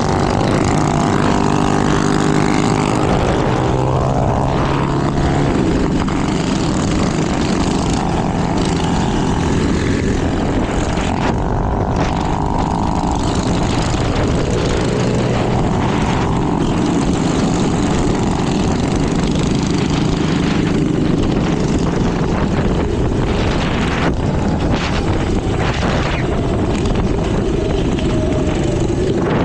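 Small minibike engines running on the move, their pitch rising and falling with the throttle over a steady rushing noise.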